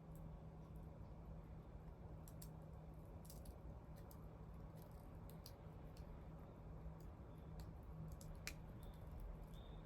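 Wood fire crackling faintly, with scattered small pops and one sharper crack. Two brief high chirps come near the end.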